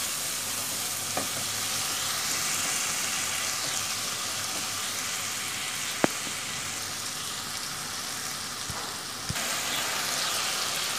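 Onion-and-spice masala sizzling steadily in hot oil in a wok, with a few light clicks of a silicone spatula; the spices are being fried down in the oil.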